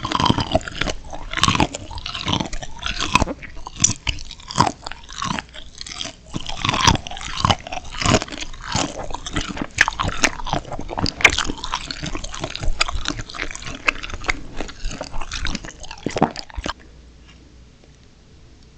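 Close-up, crunchy biting and chewing of steamed shrimp: dense, irregular crackling crunches that cut off abruptly near the end.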